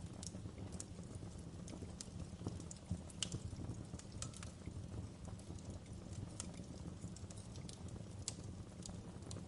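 Wood fire crackling in a fireplace: irregular sharp snaps and pops over a low steady rumble of the burning logs.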